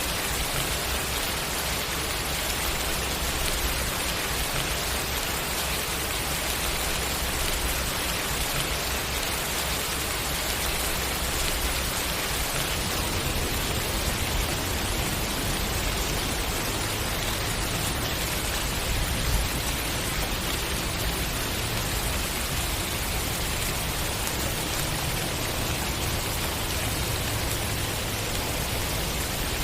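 Steady rain falling, an even dense hiss of drops.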